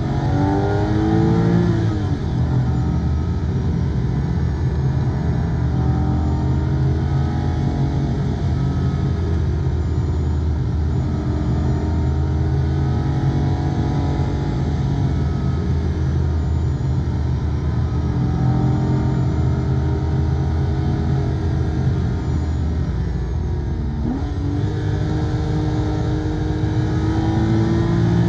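Porsche 911 (997) Carrera 2S flat-six engine pulling hard on a winding road: the revs fall about two seconds in, hold fairly steady for a long stretch, then drop suddenly near the end at a shift and climb steadily again.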